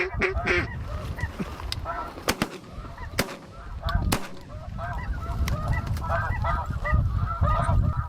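A flock of snow geese calling: many overlapping high-pitched honks throughout. Several sharp shotgun shots crack between about two and four seconds in, over low wind rumble.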